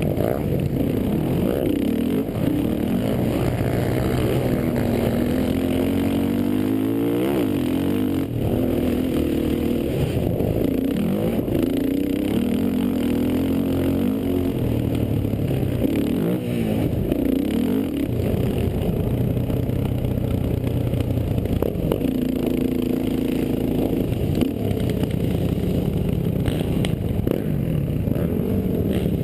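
Racing quad (ATV) engines revving hard, their pitch repeatedly climbing and dropping back as the throttle is worked.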